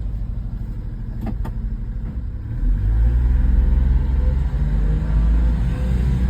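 1997 Honda Acty mini truck's small three-cylinder engine running. About two and a half seconds in it grows louder and climbs a little in pitch as the truck accelerates.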